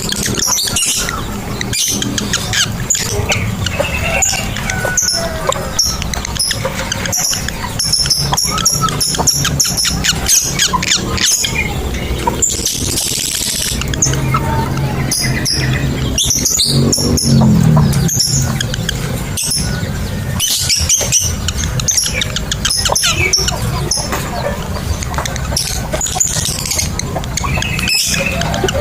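Lovebird chattering in long runs of rapid, shrill chirps and squeaks, the extended 'ngekek' call used to set other lovebirds calling.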